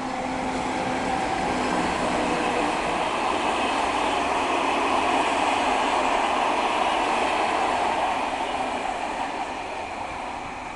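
Electric locomotive hauling a train of passenger coaches past on the rails, with a steady hum near the start. The rolling noise swells to a peak about halfway through, then eases off as the coaches run by.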